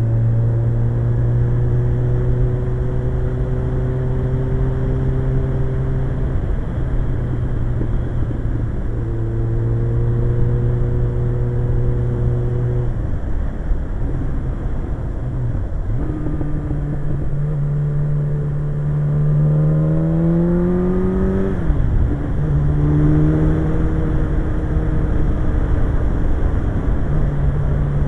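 Suzuki GSX-R1100 inline-four engine running at a steady cruise over a constant rushing noise. About halfway through it eases off, then pulls with its pitch rising steadily for about five seconds. The pitch drops sharply at a gear change and the engine settles back to cruising.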